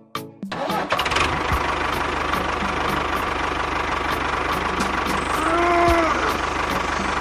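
An engine starts running about half a second in and keeps running steadily at idle, with a fine low pulse. A short tone that rises and falls sounds once near the middle.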